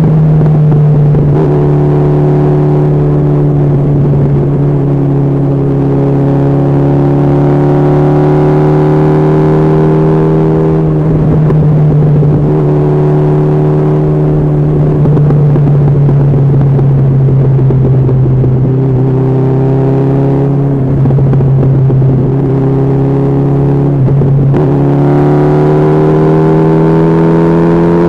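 Honda CB1300SF's inline-four engine running at highway speed, its note rising slowly and dropping back several times.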